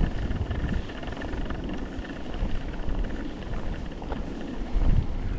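Wind buffeting the microphone while riding a bicycle, over steady rolling noise from the ride, with a stronger gust about five seconds in.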